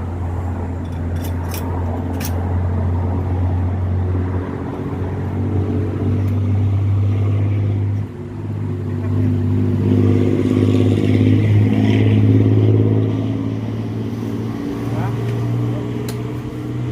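Komatsu D31P bulldozer's diesel engine running steadily, louder for a few seconds about two-thirds of the way through, then easing back. A few sharp clicks early on.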